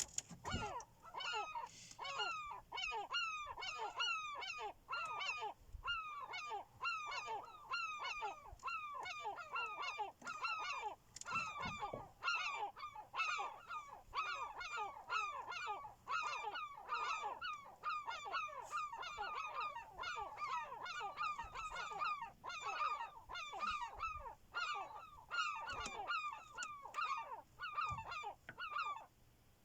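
A large flock of birds calling constantly, with many short, pitched calls overlapping at several a second.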